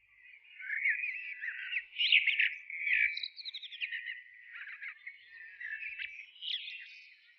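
Small birds chirping and twittering, many quick overlapping chirps, loudest about two seconds in.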